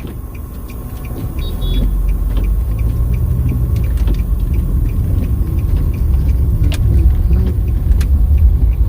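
Nissan Sunny running with a low rumble that builds over the first couple of seconds, with a light, regular ticking above it, about three or four ticks a second.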